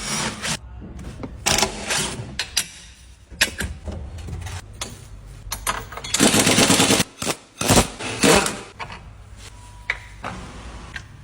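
Tools at work during a steering-rattle repair: irregular short bursts of rapid mechanical rattling and knocks. The longest burst lasts about a second, a little past the middle.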